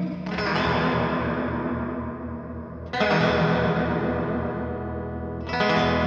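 Electric guitar played through a Big Ear Pedals Albie multi-effect pedal on a heavy vibrato preset with reverb. Three chords are struck a few seconds apart, and each is left to ring out.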